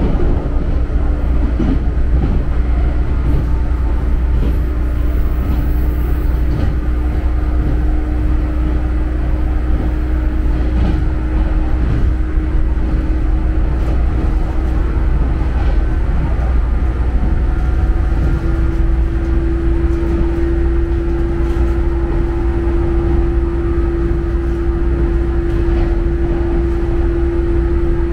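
JNR 455/413 series electric multiple unit running: a steady low rumble with a steady hum whose pitch rises slightly about two-thirds of the way through.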